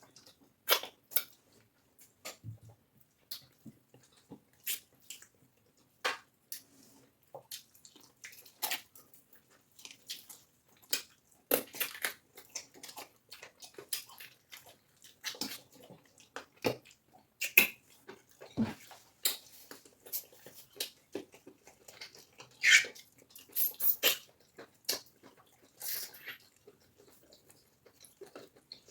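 Close-miked eating of cassava fufu with egusi soup: irregular wet smacking and squelching clicks of mouths chewing and swallowing, several a second at times.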